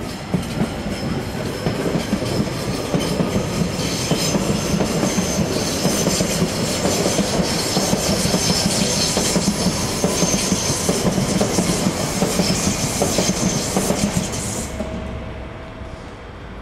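Transilien electric commuter train running past on the tracks, its wheels clacking in a regular rhythm over the rail joints and points, with a thin high-pitched wheel squeal. The sound fades away about a second before the end as the train clears.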